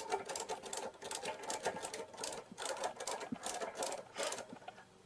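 Spanner clicking against metal in a quick, even rhythm, about three clicks a second, as it is worked to raise the motorcycle jack.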